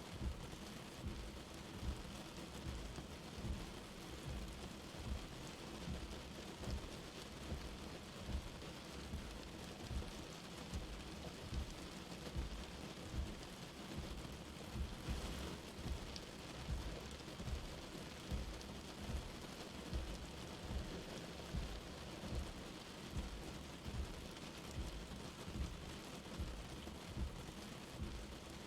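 Light rain falling steadily, with dull low drop impacts about once or twice a second.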